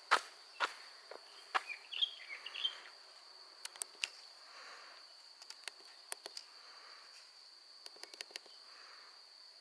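Steady high-pitched insect trill, with sharp clicks near the start, a brief burst of chirping about two seconds in, and scattered ticks later.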